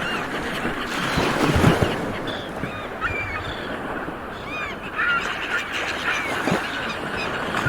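A flock of seabirds calling: many short, overlapping calls that rise and fall in pitch. Behind them is a steady rushing noise that swells louder between one and two seconds in.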